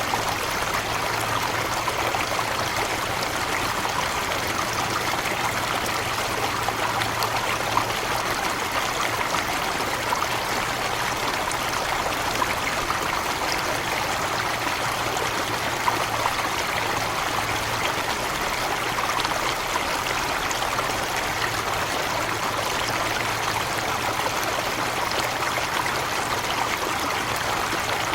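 Small forest waterfall and stream: water splashing and running over rocks in a steady, unbroken rush, with a light trickling texture.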